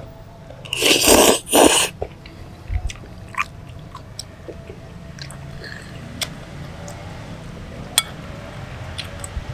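A person eating Javanese boiled noodles: two loud, noisy bursts about a second in, then quieter chewing with scattered small clicks.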